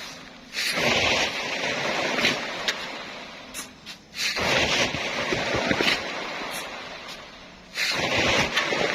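Fine sand being shovelled by hand, three shovelfuls about three and a half seconds apart, each a hiss of sliding sand that fades away.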